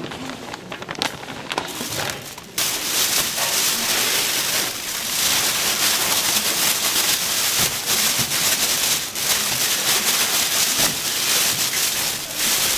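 Food sizzling in hot oil: a dense, steady crackle that grows louder and brighter about two and a half seconds in.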